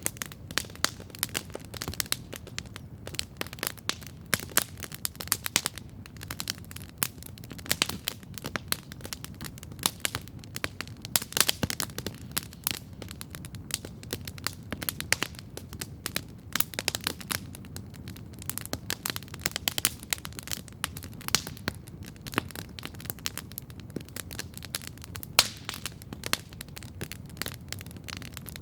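Wood campfire crackling steadily: dense, irregular sharp pops and snaps over a low, steady background rumble.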